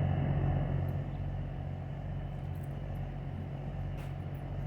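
Ellis horizontal mitering bandsaw running, a steady low electric-motor hum, a little louder in the first second, with a few faint ticks.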